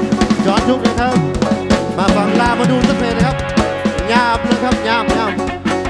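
A band playing an instrumental passage: drum kit keeping a steady beat under a lead melody whose notes bend up and down in pitch.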